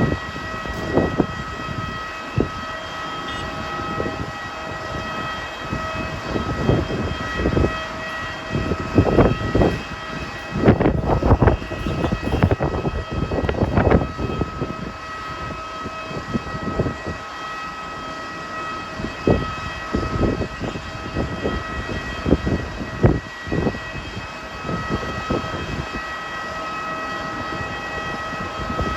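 Strong wind gusts buffeting the microphone in uneven bursts, heaviest around ten to fourteen seconds in, over a steady high mechanical whine at several pitches from the airport apron machinery.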